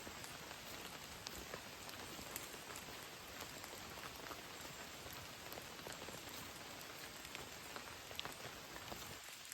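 Steady rain falling, a dense hiss with many separate drops ticking sharply on a nearby surface.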